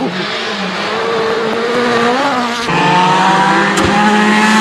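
Rally car engine running hard at high revs. It eases briefly about two seconds in, then comes back louder and pulls through a gear, its pitch slowly rising.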